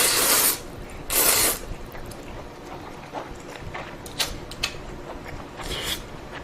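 Ramen noodles slurped in two loud bursts, one at the start and one about a second in, then quieter wet chewing with small clicks and a shorter slurp near the end.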